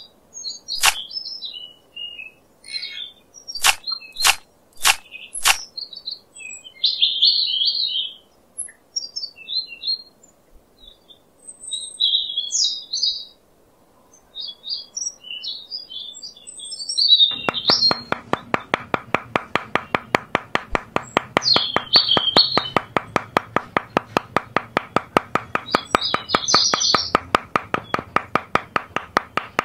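Small birds chirping and twittering, with a few sharp clicks in the first six seconds. From a little past halfway, a fast, steady ticking pulse joins under the chirps.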